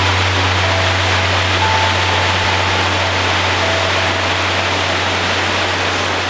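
Heavy rain pouring steadily onto a metal roof, a dense even hiss, over a low steady hum.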